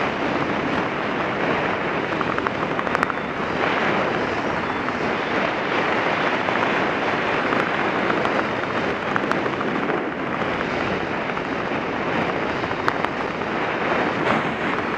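Wind rushing over the camera's microphone during the skydive: a steady, loud rush of noise with small crackles.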